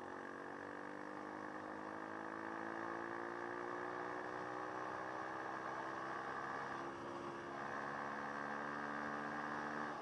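Dirt bike engine running under way, its pitch climbing slowly over the first few seconds and then holding steady, with a brief dip about seven seconds in and a change in pitch near the end.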